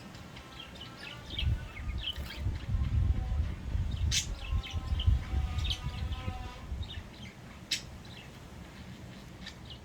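Budgerigars chirping and warbling in short high calls, with a low rumble through the middle and two sharp clicks.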